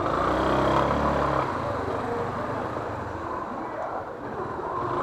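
Street traffic with motor vehicle engines running. A low engine hum is strongest in the first second and a half.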